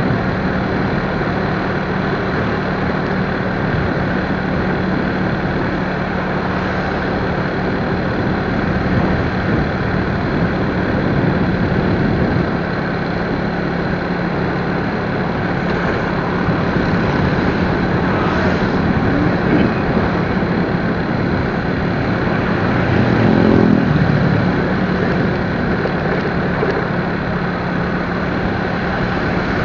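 Motorcycle engine running steadily under a dense rush of road and wind noise while riding. About three-quarters of the way through, a short swell of louder engine sound rises over it.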